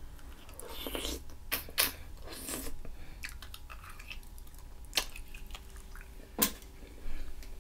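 Chewing and wet mouth smacks of someone eating boiled shrimp and mussels in sauce, with several sharp smacks.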